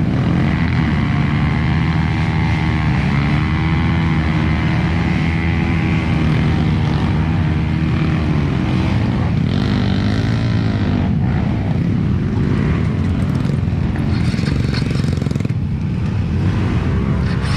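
Trail dirt bike engine running loudly, its pitch rising and falling as the throttle is opened and eased off, with a couple of clearer rev swells a few seconds in and about halfway through.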